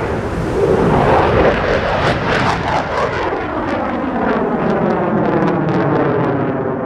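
Fighter jet flying past: a loud jet roar with a sweeping, phasing whoosh as it goes by, and sharp crackles in the middle of the pass.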